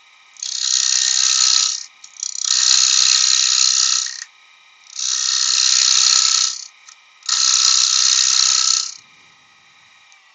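Turning tool cutting spalted beech spinning on a lathe, in four passes of about one and a half to two seconds each, with a rattling chatter as the tool skips over a surface not yet cut down to an even round. A faint steady hum of the running lathe fills the gaps between passes.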